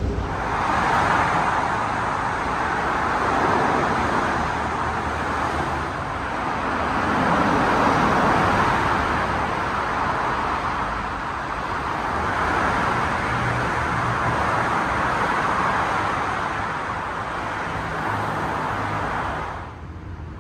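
Steady hiss of road traffic and tyres on a wet street, swelling and easing every few seconds, then cutting off suddenly near the end.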